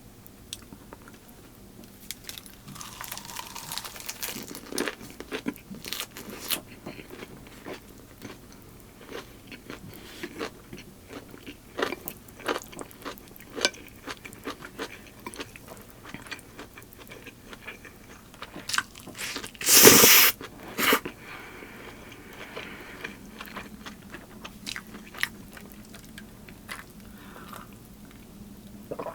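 Close-miked eating sounds: a person chewing and crunching food, with many small wet clicks and crunches. About two-thirds of the way through comes one loud, brief burst of noise.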